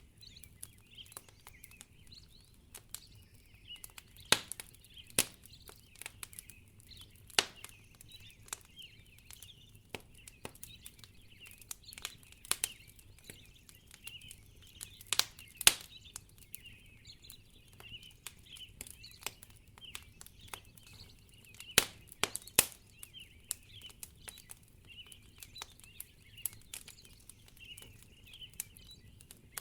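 Wood fire crackling in a fireplace, with irregular sharp pops, some much louder than the rest. Behind it runs a steady, faint high twittering.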